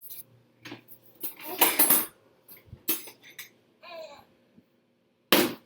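Dishes and cutlery clattering in an open dishwasher as a toddler handles them, in a series of sharp knocks and rattles, the loudest about two seconds in and again near the end. The toddler babbles briefly about four seconds in.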